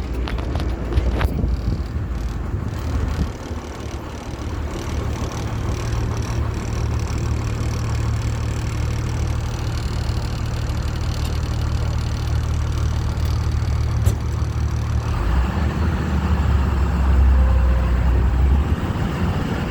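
Amphibious duck boat driving on land, its engine running with a steady low hum under road and motion noise; the engine note shifts about fifteen seconds in.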